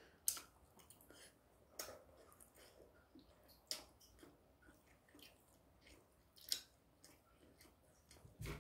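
A person chewing a mouthful of braised pollock with their mouth closed, quietly. Four or five soft, separate clicks and smacks come over near silence.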